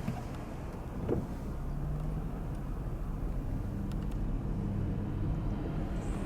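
Car engine running with a steady low hum and road rumble, with a short knock about a second in.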